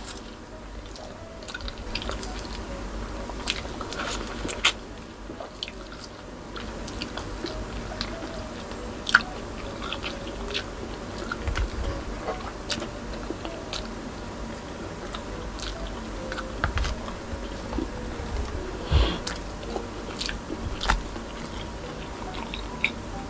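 Mouth sounds of eating orange wedges: sucking and chewing with wet smacks and clicks at irregular intervals, then a sip from a glass near the end.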